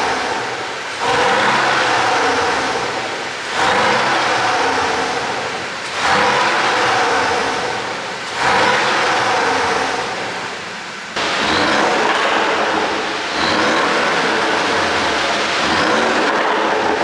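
Porsche 718 Boxster S turbocharged flat-four engine and exhaust, running on an ECU tune made for exhaust pops, revving up again and again: a loud surge roughly every two and a half seconds, each one easing off before the next.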